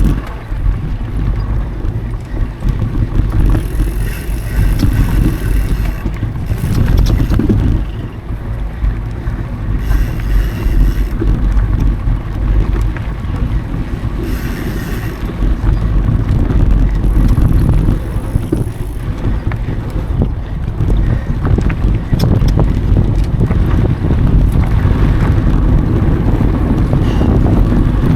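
Mountain bike being ridden over a dry dirt trail: steady wind buffeting on the action camera's microphone over a heavy rumble from the tyres and bike, with scattered sharp clicks and rattles from bumps in the second half.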